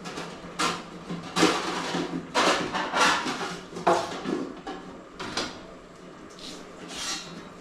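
Kitchenware being handled: a string of irregular knocks and clatters as pots, utensils and kitchen fittings are moved about.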